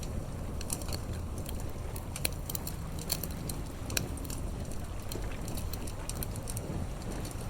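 Campfire crackling, with irregular sharp pops and snaps several times a second, over a steady low rumble.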